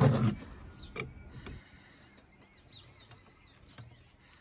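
A small bird chirping in a quick run of short arched notes a little past halfway through. Faint light clicks of metal steering parts are handled now and then, and a voice trails off at the very start.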